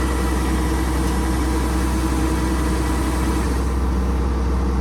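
An engine running steadily at an even speed, with a deep low hum.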